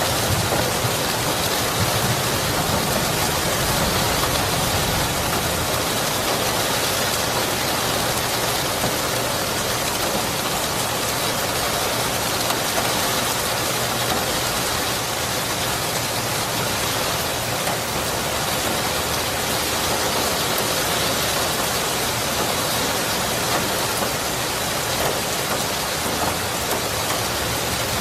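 Steady, heavy rain falling, a dense even hiss of drops, with a low rumble in the first few seconds.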